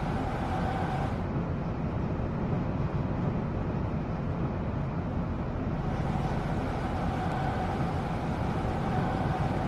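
Seoul Metro Line 2 subway train running between stations, heard from inside the carriage: a steady rumble with a steady whine that drops away about a second in and comes back around six seconds in.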